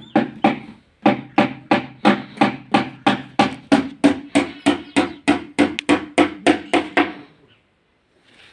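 Hammer striking in quick, even blows, about four a second, each with a short ring, in woodworking on a wooden sofa frame; the blows stop about seven seconds in.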